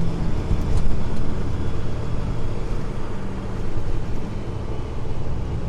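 Semi truck's diesel engine running as the truck drives along, a steady low drone.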